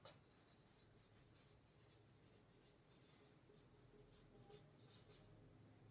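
Near silence with faint scratching strokes of writing, a pen or marker moving across a writing surface in a small room.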